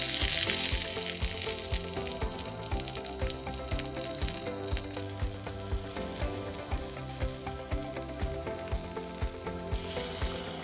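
Pancetta roll frying in hot oil in a miniature wok: a loud sizzle as it goes into the oil, easing over the next few seconds into a steady fry with many small pops.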